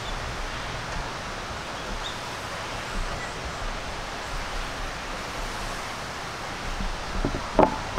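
Steady rushing outdoor noise, with one short, sharper sound near the end.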